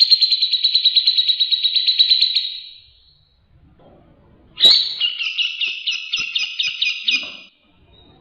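Cucak jenggot (grey-cheeked bulbul) singing two fast, loud trilled phrases. The first fades out about two and a half seconds in; the second starts with a sharp note about four and a half seconds in and runs for about three seconds.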